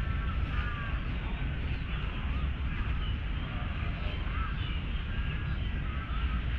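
Birds chirping and calling in short whistled notes, many calls overlapping, over a steady low rumble of distant city traffic.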